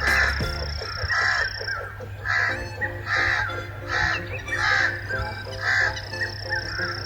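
Bird calls like crow caws, repeated about eight times at an even pace over light background music.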